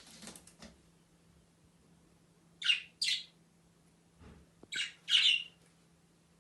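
Pet lovebirds giving short, harsh squawks in two pairs, the first pair about two and a half seconds in and the second near the end, over a faint steady hum.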